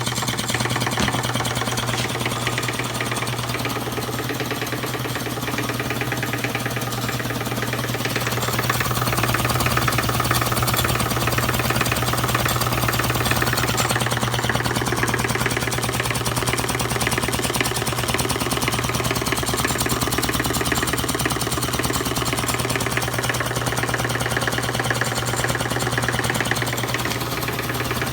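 Old cast-iron electric air compressor with a flywheel, running steadily: a fast, even clatter over a steady low hum.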